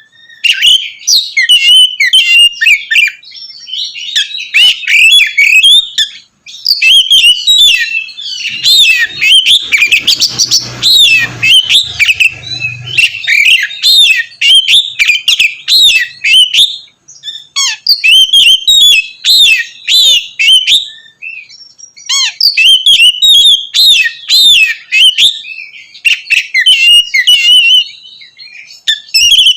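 Oriental magpie-robin (kacer) singing loudly and continuously in long, rapid phrases of varied whistles and sharper notes, broken by a few short pauses.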